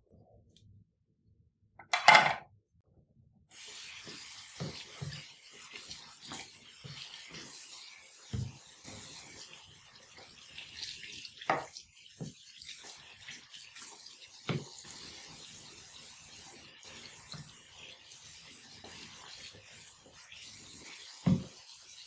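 Tap water running in a steady hiss from about three and a half seconds in, with scattered knocks and clinks of things being handled. A short loud hiss comes about two seconds in.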